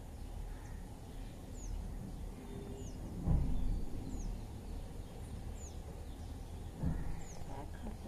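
Outdoor background noise with a small bird repeating a thin, high, falling chirp about once a second. A low thump comes about three seconds in, and another about seven seconds in.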